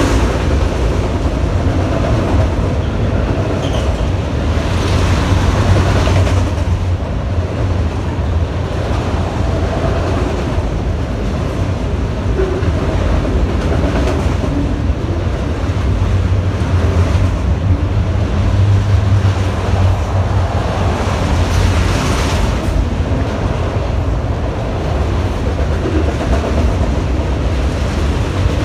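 Freight train of autorack cars rolling past: a steady, loud rumble of steel wheels on rail, with swells of wheel clatter every few seconds as the cars go by.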